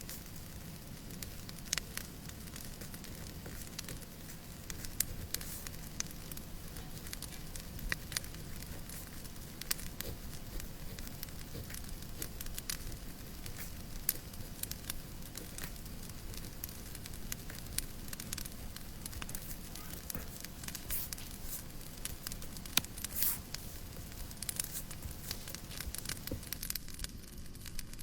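Fireplace crackling: irregular sharp pops and snaps over a steady low hiss.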